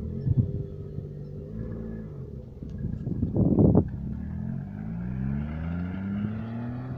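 Small convertible sports car engine pulling away, with a short loud burst a little past halfway. Then its pitch climbs in repeated steps as it accelerates and shifts up through the gears.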